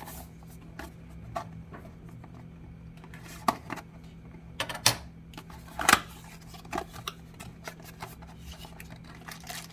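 Hands handling and opening a small cardboard-and-plastic accessory box: scattered light clicks and taps, with a few sharper ones around the middle, over a steady low room hum.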